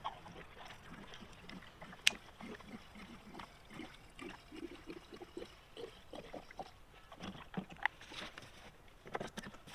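Quiet handling sounds while a chainsaw is being refuelled: scattered soft knocks and rustles, with one sharp click about two seconds in.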